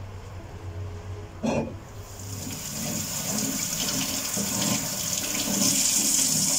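A single knock, then a steady hiss of running water that starts about two seconds in and grows louder.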